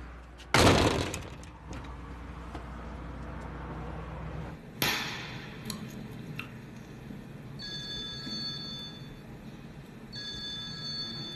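A loud sharp bang about half a second in. From the middle on, a telephone's electronic ringer gives two steady, shrill rings, each about a second and a half long and about a second apart.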